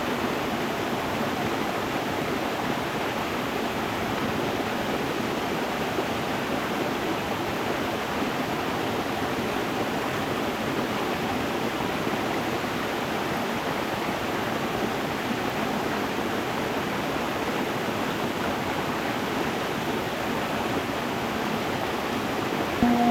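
A stream running over stones, a steady, even rushing of water. At the very end a singing bowl starts to ring with a steady tone.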